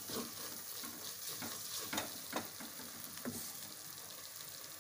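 Spice masala sizzling in oil in a clay pot while a wooden spatula stirs it, with a few scraping strokes against the pot. The chilli powders are frying in the oil.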